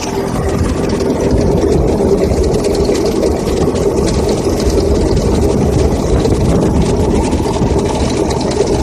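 Tractor engine running steadily, driving a mounted crop sprayer.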